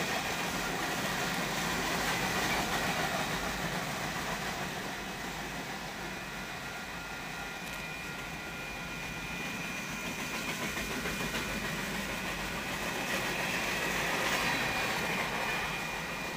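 Train cars rolling steadily through a grade crossing: continuous rumble and clatter of wheels on rail, with a faint high tone that grows louder near the end.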